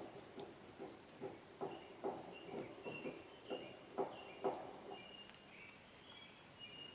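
Soft, irregular rustling taps, roughly two or three a second, that thin out after about five seconds, with faint, short high chirps from about two seconds in.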